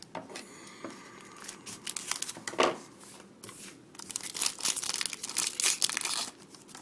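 Foil wrapper of a hockey card pack crinkling and tearing as it is opened. The crinkling comes in a short burst about two and a half seconds in, then a longer spell from about four seconds.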